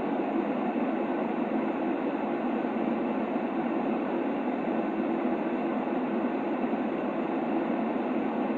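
Steady white-noise track of the kind played to soothe a baby to sleep: an even, unchanging, muffled hiss with most of its weight low in the range and nothing else in it.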